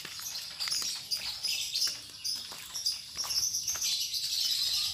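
Small birds chirping and twittering steadily, with a few light knocks.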